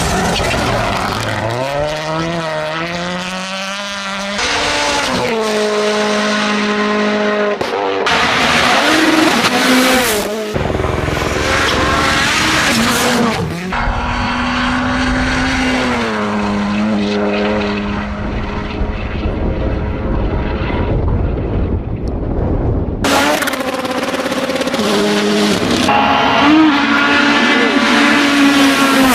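Modified cars' engines revving and accelerating away, one car after another in short clips, the engine pitch rising and falling as each pulls off, with abrupt cuts between cars.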